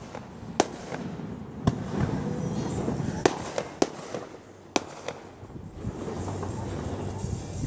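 Aerial fireworks shells bursting, five sharp reports at uneven spacing within the first five seconds.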